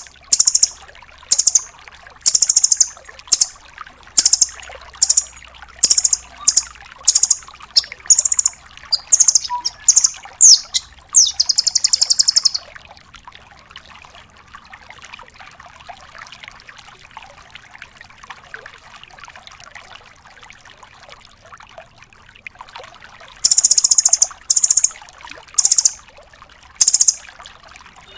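Velvet-fronted nuthatch calling: sharp, high, loud notes repeated about one or two a second, then a fast rattling trill about twelve seconds in. After a pause of about ten seconds with only a faint background hiss, the notes resume near the end.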